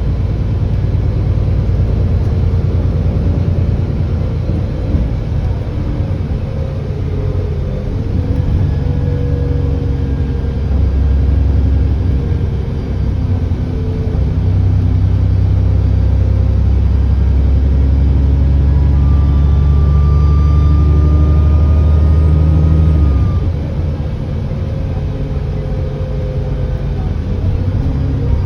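Alexander Dennis Enviro400 double-decker bus heard from on board, its diesel engine pulling harder for a stretch with a steady turbo whine rising over it for a few seconds. The engine then eases off suddenly near the end.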